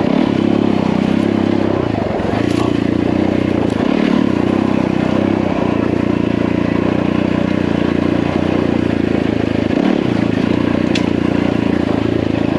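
Yamaha WR450F single-cylinder four-stroke dirt bike engine running at a steady pace while riding, with a few sharp clicks.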